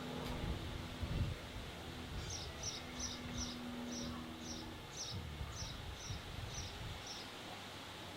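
A small bird calling, a short high chirp repeated over and over, two to three times a second, starting about two seconds in. Underneath is a low rumble, with a faint steady hum that stops about halfway.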